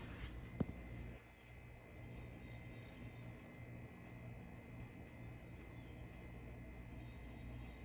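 Faint, high-pitched cheeping of a nestling bird in its nest: short peeps repeating about twice a second from about two and a half seconds in. A single sharp click about half a second in is the loudest thing.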